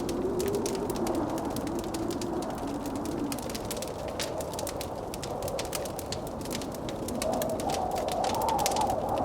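Blizzard wind howling with a slowly wavering pitch that rises higher near the end, over a wood fire in a fireplace crackling and popping.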